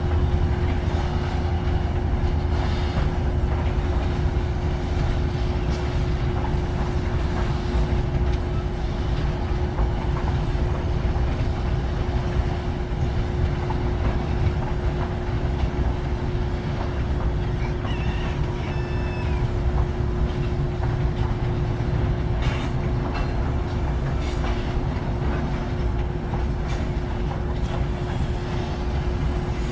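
Loaded freight train rolling past at steady speed: a continuous low rumble with wheels clicking over the rail joints, and a brief wheel squeal a little past the middle.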